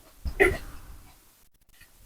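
A single brief mouth sound from eating noodles about half a second in, then near silence.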